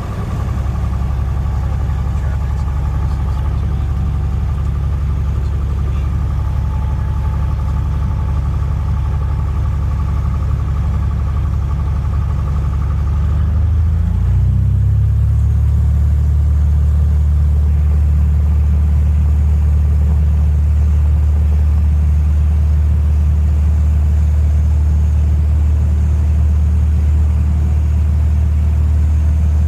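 Cessna 172's piston engine and propeller droning steadily, heard inside the cabin. About halfway through, the engine note dips briefly, then settles louder and steadier.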